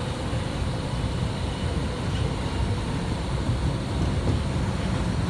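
Interior running noise of a Kita-Osaka Kyuko 8000 series subway car (car 8707) travelling through a tunnel between stations. A steady low rumble of wheels on rail, with a hiss above it, holding even throughout.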